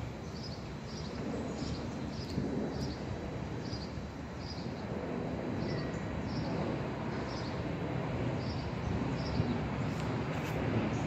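A bird chirping over and over, a short high chirp about twice a second, over a low rumble that slowly grows louder.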